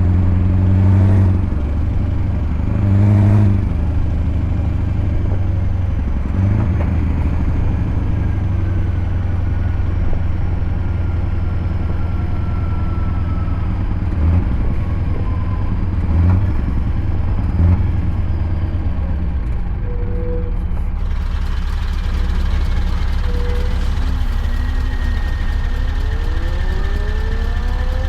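Scania V8 truck engine running steadily with a deep low hum, with a few brief swells along the way and its pitch rising near the end as it pulls.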